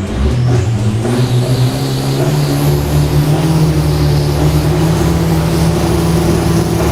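Turbocharged drag-racing pickup truck engine revving hard: its pitch climbs over the first couple of seconds, then holds steady and loud at high revs.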